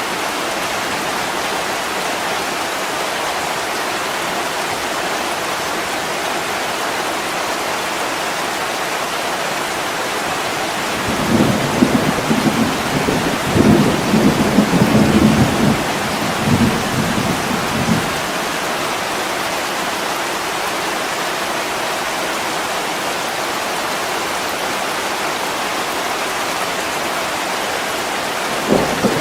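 Heavy rain pouring steadily on a window pane, with a low rolling rumble of thunder about eleven seconds in that lasts some seven seconds, and a short rumble again near the end.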